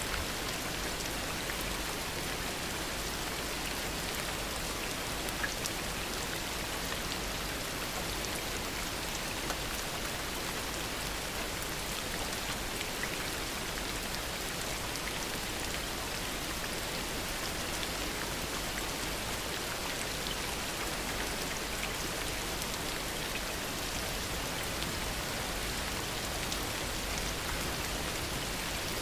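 Steady heavy rain falling, with a constant hiss and scattered drops pattering close by.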